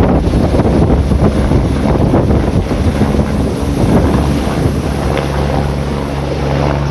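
Strong wind buffeting the microphone, with the steady low drone of a helicopter underneath that comes through more clearly near the end.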